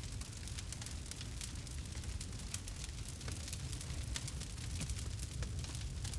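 Campfire burning, with frequent quick crackles and pops over a low steady rumble of the flames.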